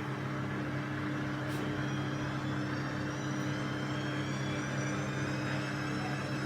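Washing machine running with a steady, even motor hum and no change in pace.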